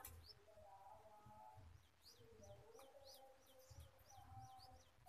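Faint birds chirping: a quick run of short, falling chirps, about three a second, over lower wavering calls.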